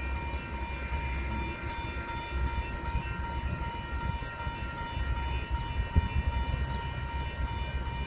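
Train running by: a low rumble under several steady high-pitched whining tones, with a single sharp knock about six seconds in.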